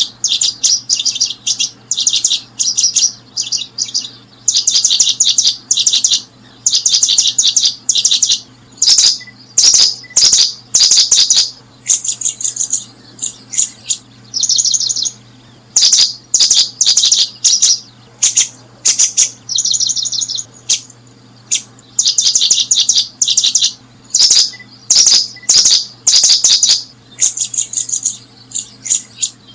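Bird chirping: rapid, high-pitched bursts of calls repeated over and over with only short gaps, over a faint steady low hum.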